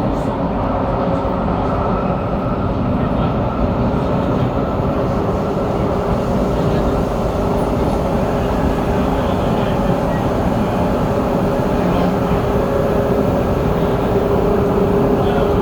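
SMRT C751B metro train running along the track, heard from inside the car: a loud, steady rumble of wheels and running gear, with a faint steady tone that grows a little stronger near the end.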